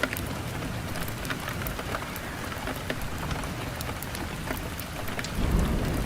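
Wood fire burning in a fireplace, crackling with frequent small sharp pops over a steady hiss, with a brief louder low rumble about five and a half seconds in.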